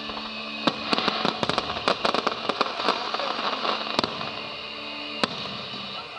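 Fireworks display: a rapid barrage of bangs and crackles starts about a second in, densest over the next two seconds, then thins to a few single reports. Steady held notes of background music sound underneath.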